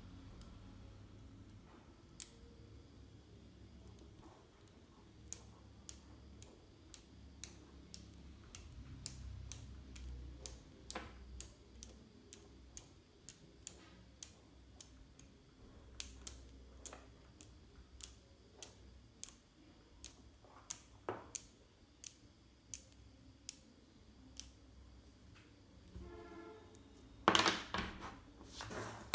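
Small magnetic balls clicking as they snap onto one another, one sharp click at a time at irregular intervals, with a brief loud flurry of clicks near the end.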